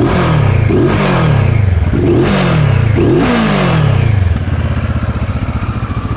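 CFMoto 650 MT's 649 cc parallel-twin engine revved in about four quick throttle blips through its stock exhaust, each rev rising sharply and falling back, then settling to a steady idle about four seconds in.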